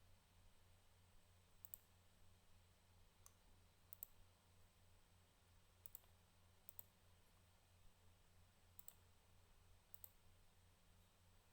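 Faint computer mouse clicks, several in quick pairs, every second or two over a low steady hum.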